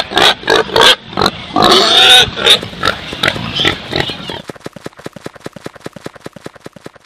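Domestic pig grunting and squealing loudly for about four seconds, then a quick run of short, quieter grunts, about ten a second.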